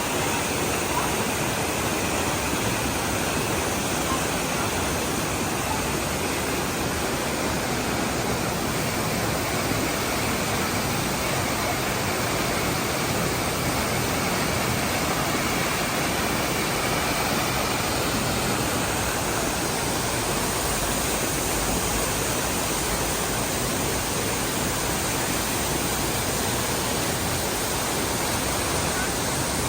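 Düden Waterfalls: the steady, unbroken rush of falling water.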